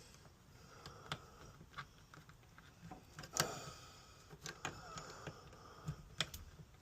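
Ratchet spanner clicking and metal tools clinking while a car battery terminal is loosened: scattered short clicks and knocks, a few with a brief metallic ring.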